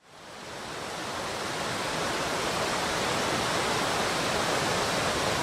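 Rushing mountain stream rapids, water tumbling over rocks in a steady, even rush that fades in over the first second or so.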